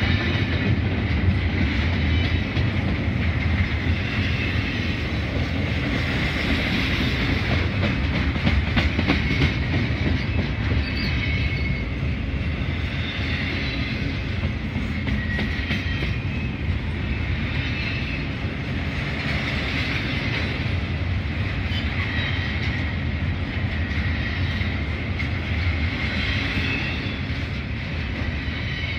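Double-stack container cars of a Norfolk Southern freight train rolling past: a steady rumble of steel wheels on rail with clickety-clack at the rail joints. A high ringing swells and fades every couple of seconds.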